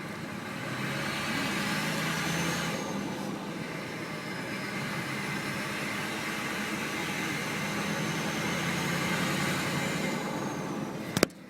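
A vehicle engine running steadily, a low hum with a faint whine above it. There is a single sharp click near the end.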